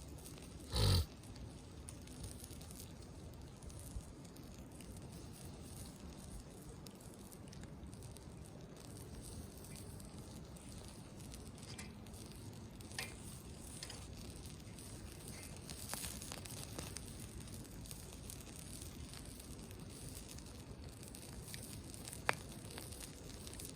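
Wood campfire burning with a soft steady crackle and scattered sharp pops, and one heavy thump about a second in.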